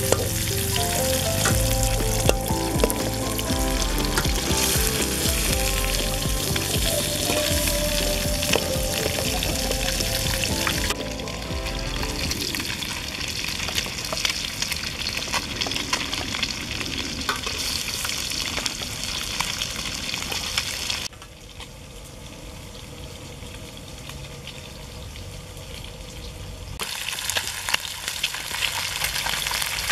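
Catfish pieces sizzling in hot oil in a steel wok, with occasional clicks of a spoon against the pan. Music plays under the frying for roughly the first twelve seconds, and the sizzle drops quieter for several seconds about two-thirds of the way through before coming back up.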